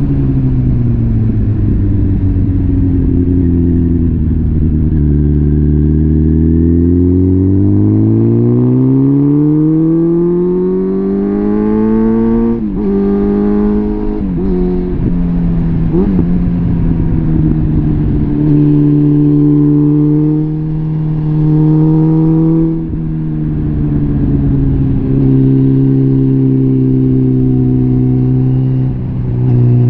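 Suzuki GSF650 Bandit's inline-four engine through a full Arrow exhaust system, its note rising steadily for about twelve seconds under acceleration. It then drops as the rider changes up, and runs at a steadier pitch with a couple of brief dips later on.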